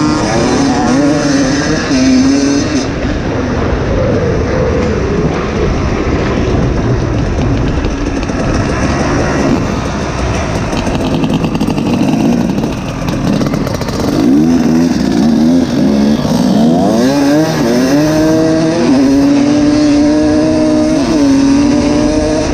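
Two-stroke dirt bike engine ridden hard, its revs climbing and dropping again and again through the gears, then holding high near the end.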